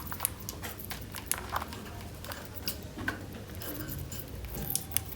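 Budgerigars nibbling fresh coriander leaves, a run of irregular small crisp crunches and clicks.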